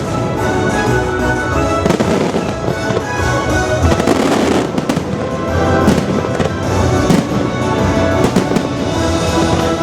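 Fireworks going off in a rapid series of sharp bangs over loud orchestral show music.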